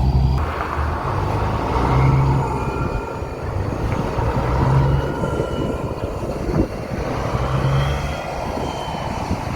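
Peterbilt semi truck running down the road, its low engine drone swelling and fading every few seconds over steady road and wind noise.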